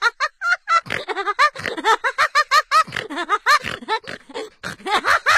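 Rapid, high-pitched chattering laughter in quick short syllables, a comic vocal sound effect rather than the motorcycle's own sound.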